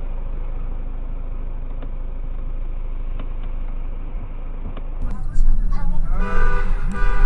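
Steady road and engine rumble from a car-mounted camera. After an abrupt change of recording, a car horn sounds loudly, twice in quick succession, the second held.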